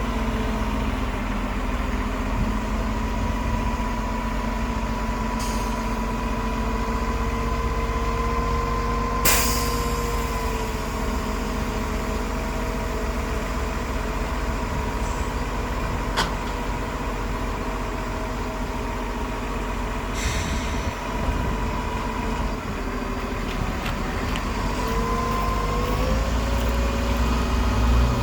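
Heavy diesel earthmoving machinery running steadily. The engine's pitch dips slightly about ten seconds in and climbs again near the end, with a short sharp hiss about nine seconds in.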